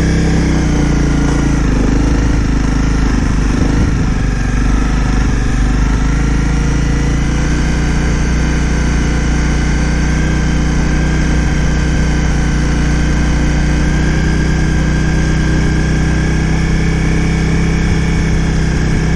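Honda CRF250 Rally's single-cylinder four-stroke engine running at a low, even pace. Its pitch rises and falls a little over the first few seconds, then holds steady.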